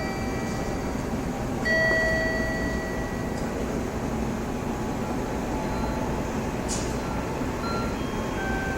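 Freight train hauled by an EF200 electric locomotive rolling through a station: a steady rumble of wheels on rail, with faint thin high tones coming and going and a brief hiss about seven seconds in.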